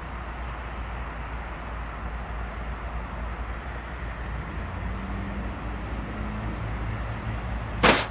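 Diesel freight locomotives approaching: a low rumble that grows slightly louder, with a faint steady engine drone coming in about halfway. A brief sharp noise stands out near the end.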